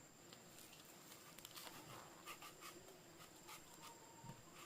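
Near silence: faint room tone with scattered small clicks and rustles.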